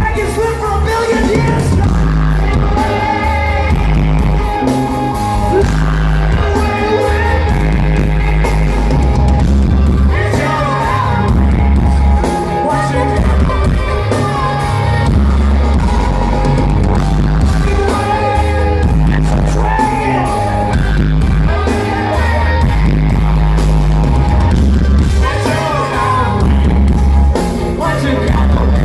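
Ska-rock band playing live with a lead singer over drums, guitars and a heavy, pulsing bass line. The recording has poor, boomy sound, with the low end overloaded and the vocals pushed back in the mix.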